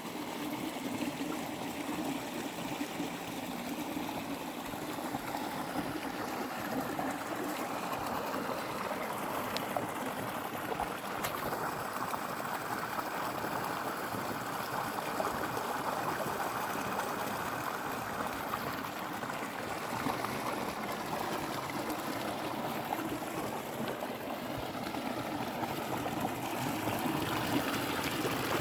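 Water flowing and trickling steadily, a continuous running-water sound.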